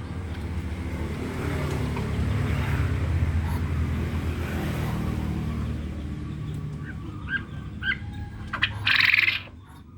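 A motor vehicle passes with a low engine hum that swells and fades. Near the end a quail gives a few short chirps, then a loud, rattling half-second chattering call.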